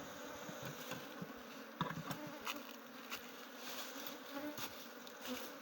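Many honeybees buzzing together in a steady hum around an opened hive, with a few light clicks.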